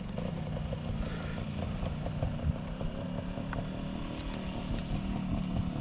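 Trials motorcycle engine running steadily at low revs as the bike picks its way down a grassy slope, with a few faint clicks in the second half.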